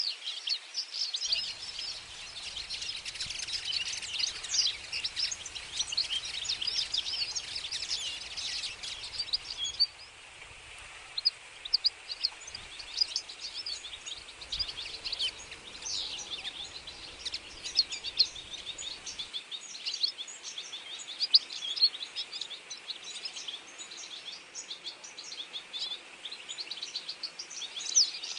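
A dense chorus of many birds chirping and calling at once: short, high chirps overlapping without a break, thinning briefly about a third of the way in.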